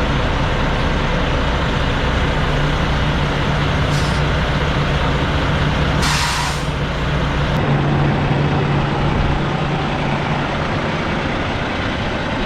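Semi truck's diesel engine running steadily, with a short hiss of air released about six seconds in.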